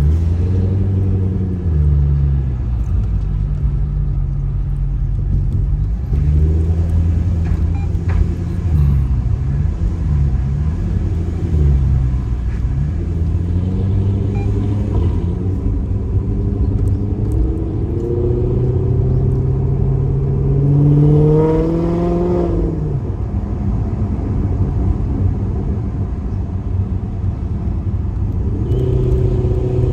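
2008 Maserati GranTurismo's 4.2-litre V8 running through a Kreissieg aftermarket exhaust. It holds a low steady note with several short rises and dips in pitch, climbs in one longer rev from about 18 seconds to 22 seconds, then drops back sharply.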